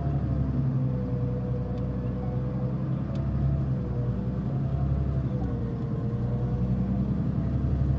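Mitsubishi Fuso Aero Star city bus driving, its diesel engine rumbling steadily under a strong whining tone that wavers up and down in pitch. The whine is the abnormal noise this bus was known for.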